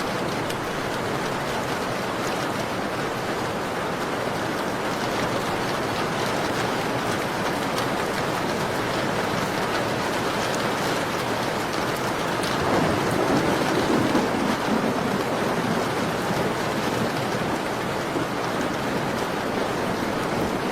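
Steady rain pattering on a window. About two-thirds of the way through it swells briefly louder and deeper for a couple of seconds.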